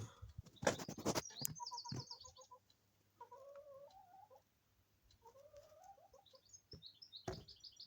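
A songbird singing in short phrases of low warbling notes, each ending in a rapid high twitter. Loud knocks come near the start and once more near the end.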